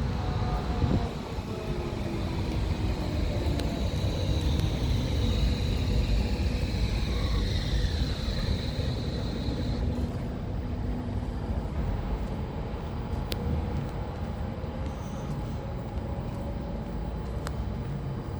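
Zagreb ZET tram running through a turning loop: a steady low rumble of wheels on rail, with motor tones gliding up and down. A high steady squeal, typical of wheels in a tight curve, runs for the first half and cuts off abruptly about ten seconds in.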